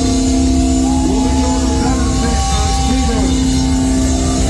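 Loud live heavy metal band playing, with long held notes, some sliding in pitch, over a constant low rumble.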